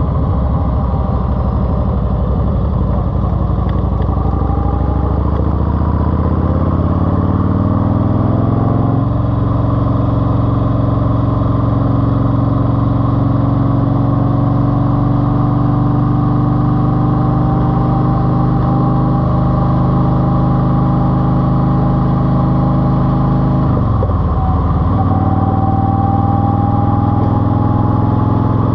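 Eluder GT's engine running through a TAB exhaust with 2.5-inch baffles. Its pitch climbs over a few seconds to a steady higher speed, dips briefly near the end, then picks back up.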